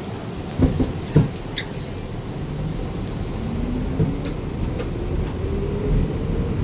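Subway train running and picking up speed: a steady rumble with a motor whine that rises slowly in pitch, and two sharp clunks near the start.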